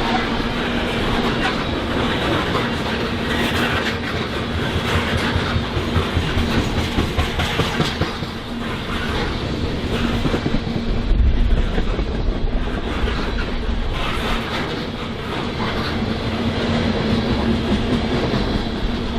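BNSF freight train cars rolling past, their wheels clacking over the rails in an uneven rhythm over a steady rumble.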